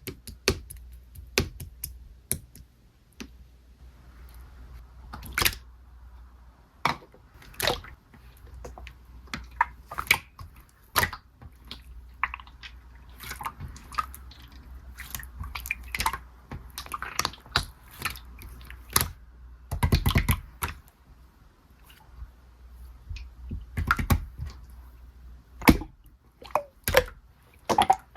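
Clear slime being pressed, poked and stretched by hand, making irregular sticky pops and clicks, with a denser run of them about twenty seconds in. A low steady hum lies underneath.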